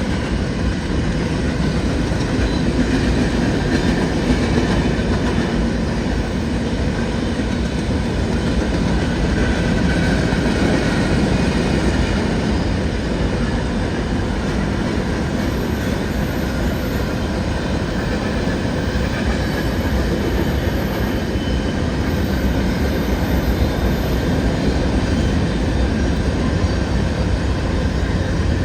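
CN freight train rolling past steadily, its cars going by on the rails without a break.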